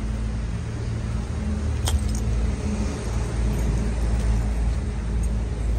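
Road traffic: a car engine running close by, a steady low hum, with a sharp click about two seconds in.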